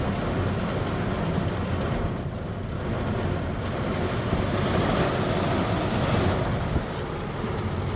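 Thunderstorm heard from inside a car: a steady rushing noise with a deep rumble underneath, easing briefly a couple of seconds in and swelling again about halfway through.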